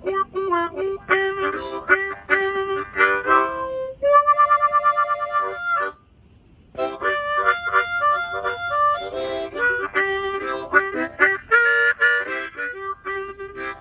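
Blues harmonica solo between sung verses: quick phrases of short, repeated notes, a long wavering trilled note about four seconds in, a brief pause around six seconds, then more choppy phrases.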